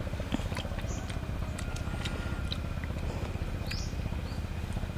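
Birds chirping in short calls, a couple of times a few seconds apart, over a steady low rumble, with scattered faint clicks.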